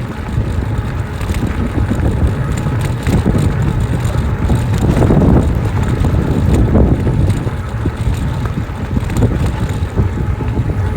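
Wind buffeting the microphone, with tyre and road rumble from an e-bike rolling along a paved road; a steady, heavy low rumble that swells a little around the middle.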